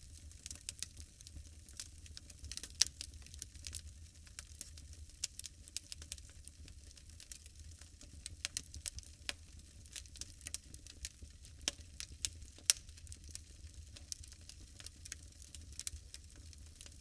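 A fire in a fireplace crackling, with irregular small pops and snaps and two louder pops, about three seconds in and again near thirteen seconds.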